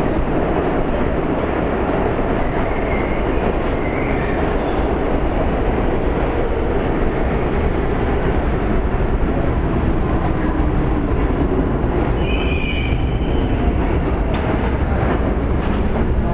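Budd-built R32 subway train running through a station with a steady heavy rumble of wheels on rails, and brief high wheel squeals a few times.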